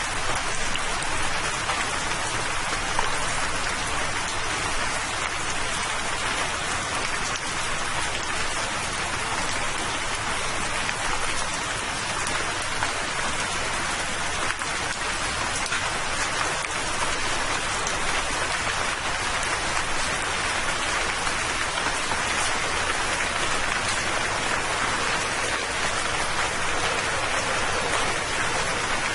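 Steady rain falling: a dense, even patter of drops that keeps on without change.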